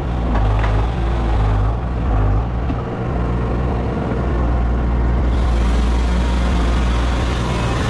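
A large engine running steadily and loudly, with a few clicks near the start and more hiss from about five seconds in.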